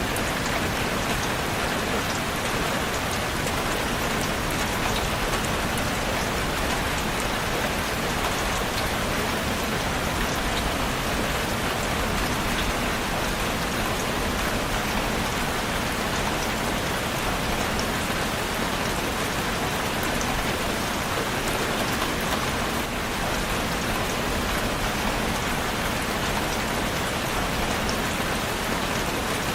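Steady rain falling on a surface: a dense, even hiss of many raindrops with scattered fine drop ticks.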